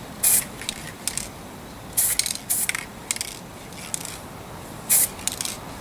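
Aerosol spray-paint can giving a series of short bursts of hiss, several seconds apart and uneven, as black paint is sprayed onto a small die-cast part.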